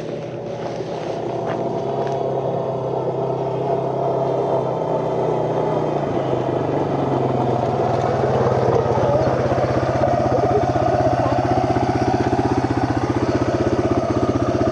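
Off-road vehicle engine running under way on a trail, a steady pulsing drone that grows gradually louder over the first several seconds and then holds.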